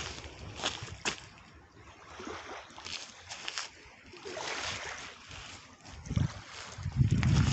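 Footsteps crunching along an outdoor trail in an irregular series of short clicks over a soft hiss. Wind buffets the microphone with a low rumble near the end.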